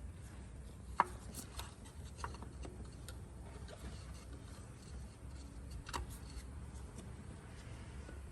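Scattered light clicks and taps of hand tools and parts being handled during reassembly, with a sharper click about a second in and another near six seconds in, over a low steady hum.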